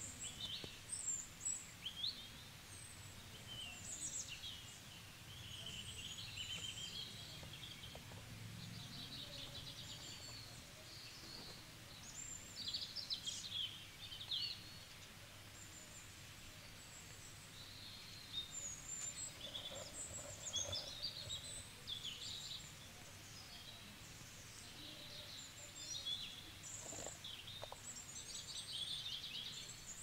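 Small birds chirping in many short calls and quick trills, scattered throughout, over faint steady background noise.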